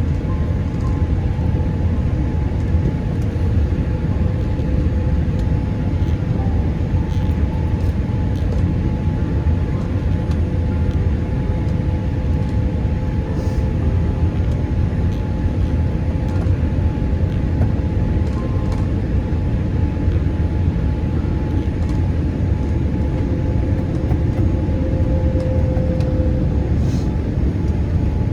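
Steady rumble of a Boeing 787-8 airliner heard from inside the economy cabin, with two steady engine tones running through it.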